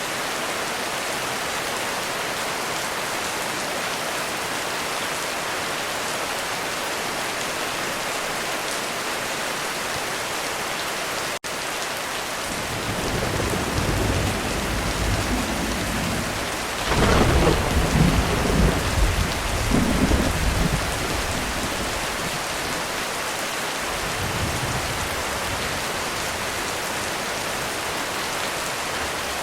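Heavy rain falling steadily, with a brief dropout a little before halfway. A roll of thunder then builds up, rumbles loudest with a few sharper peaks in the middle, and fades away, followed by a shorter, fainter rumble.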